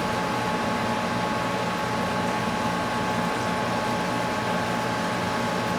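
Steady mechanical hum with a few constant tones, from room ventilation running.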